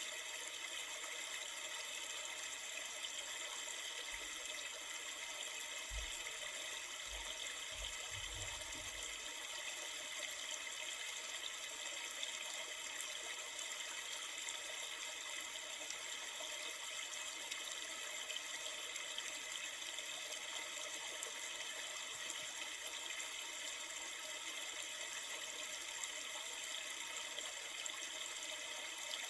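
River water flowing in a steady, unbroken rush, with a few faint low bumps about six to nine seconds in.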